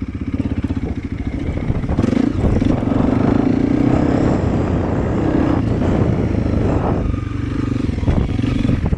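Honda CRF300L's single-cylinder engine running as the motorcycle is ridden, with a rapid even beat. It pulls harder about two seconds in and eases off near the end.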